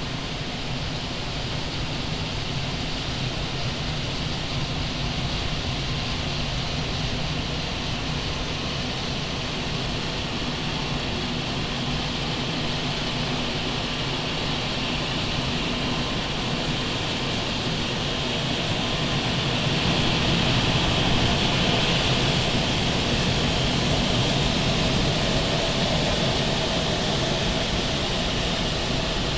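Automatic car wash machinery heard from inside the car: a steady rushing noise of spray or blowers on the bodywork, with a low hum underneath. It grows louder and brighter about two-thirds of the way through.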